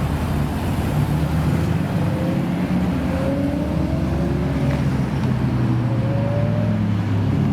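Car engine running with a deep, steady low note. Its pitch rises gently several times, as in light acceleration.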